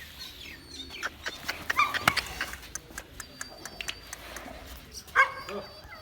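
Short animal calls about two seconds in and again about five seconds in, among scattered clicks and knocks; the sharpest knock comes about two seconds in.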